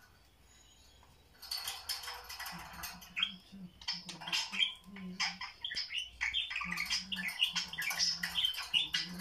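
Budgerigars chattering and warbling in a dense run of quick chirps, starting about a second and a half in.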